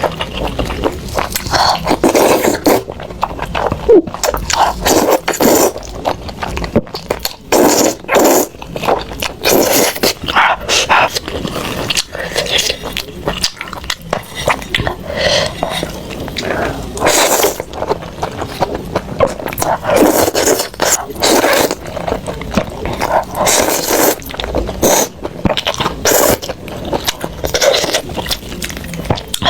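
Close-miked eating of Buldak spicy noodles: slurping and chewing in an irregular, unbroken run of wet mouth noises.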